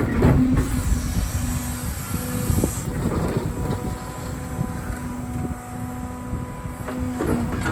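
Heavy excavator working: the diesel engine runs under load with a steady hydraulic whine that dips briefly now and then, and a few clunks.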